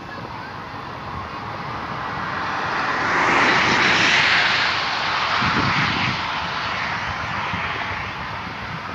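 A vehicle passing by: a rushing noise swells to a peak about four seconds in, then slowly fades.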